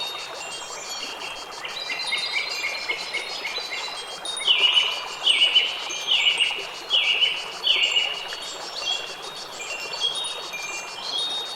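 Wind chimes ringing, many overlapping high notes over a steady background hiss. Midway comes a run of six loud, repeated falling notes, each about three-quarters of a second apart.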